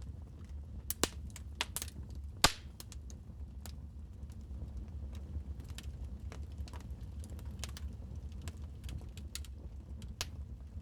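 Wood fire crackling in a fireplace: irregular pops and snaps over a low steady rumble, with the sharpest pops about one and two and a half seconds in.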